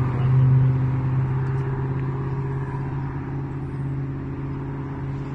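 A motor vehicle engine idling close by, a low, even hum that slowly fades.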